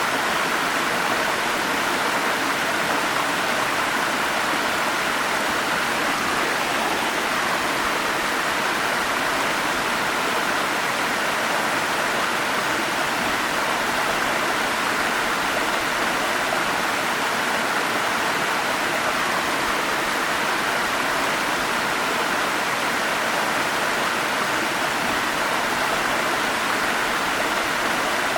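Forest stream and small waterfall running water, a steady, even rushing.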